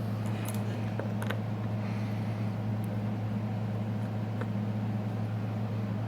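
Steady low electrical hum, with a few faint clicks from small hand work as adhesive is pulled off a phone.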